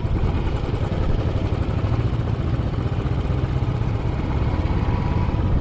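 Royal Enfield Classic 500's single-cylinder engine running steadily on the move, its low, pulsing throb mixed with a steady rush of wind noise.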